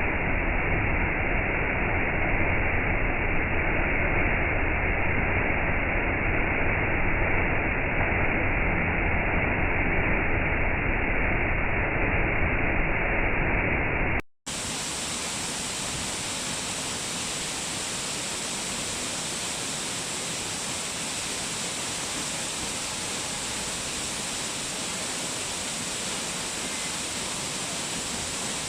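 Waterfall: a steady rush of falling water. About halfway through it cuts out for a moment and resumes as a brighter, slightly quieter rush of water.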